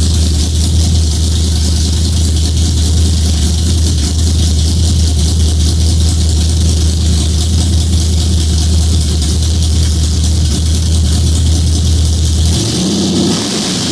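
Car engine idling with a steady, deep low rumble. Near the end the engine note shifts and glides in pitch.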